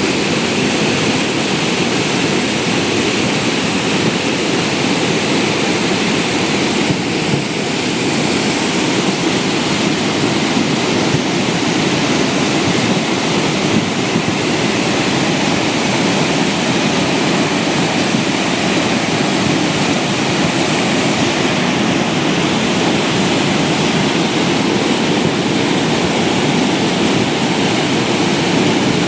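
Floodwater rushing down a swollen hill stream, a loud, steady, unbroken noise of fast turbulent water.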